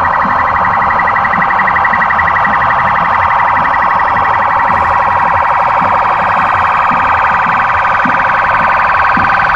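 Police vehicle sirens sounding a fast, rapidly pulsing warble, loud and steady.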